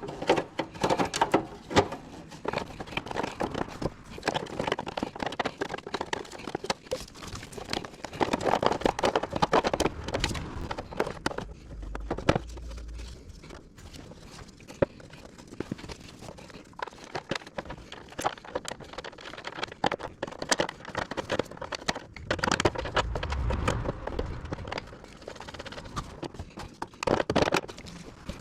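Irregular clicks and clattering knocks of hand work with tools and parts, spread unevenly, with a quieter stretch in the middle and a louder cluster near the end.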